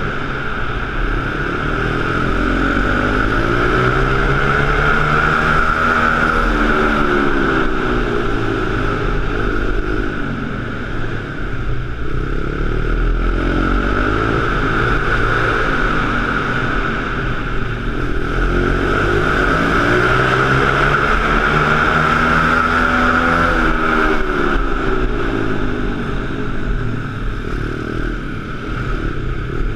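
Pit bike engine running continuously, with a steady high whine, its pitch sweeping up and back down twice in long arcs of about ten seconds each.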